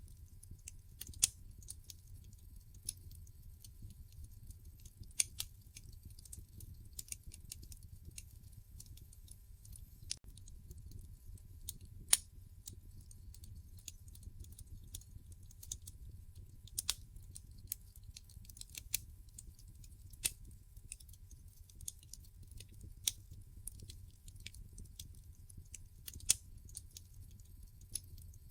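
Wood fire burning in a fireplace: irregular sharp crackles and pops from the logs, a few louder snaps among many small ones, over a low steady rumble of the flames.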